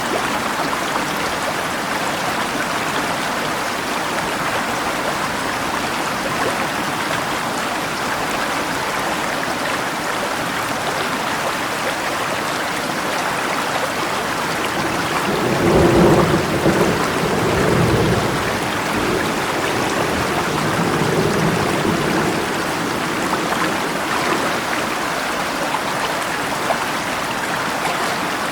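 Steady rush of flowing river water and rain. About halfway through, a roll of thunder rumbles in for a few seconds, and a fainter rumble follows shortly after.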